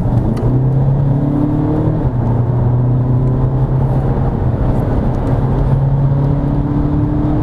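Tuned Volkswagen Passat B8 diesel, pushed to about 300 hp, accelerating hard from a launch in Sport mode. The engine note climbs, dips at a DSG upshift about two seconds in, then pulls again.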